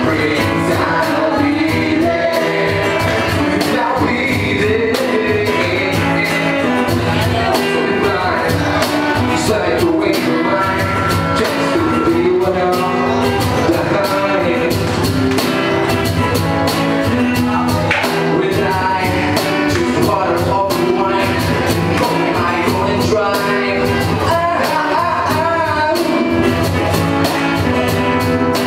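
Live rock band playing, with a singing voice over a steady drum beat.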